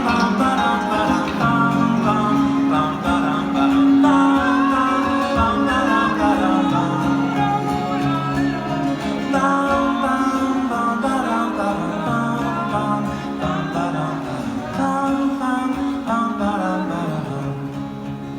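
Live band music: an instrumental passage of acoustic guitar and other plucked strings over a steady band backing.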